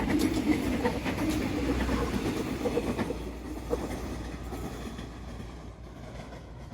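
KRDE diesel-electric multiple unit running along the track, its wheels clicking over the rail joints, the rumble fading steadily as it moves away.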